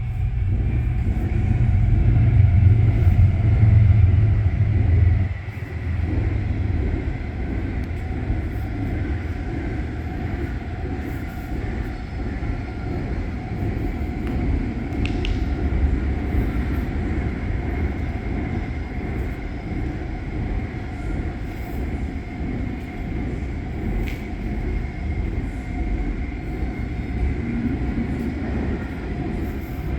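Steady low rumble of a running Ford F-250 pickup truck. It is loudest for the first five seconds, then drops suddenly to an even level.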